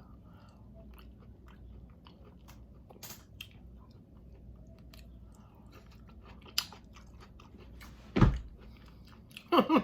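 Close-up chewing and biting of shrimp and vegetables: a run of small wet mouth clicks and crunches, with one louder low burst about eight seconds in and a voice starting right at the end.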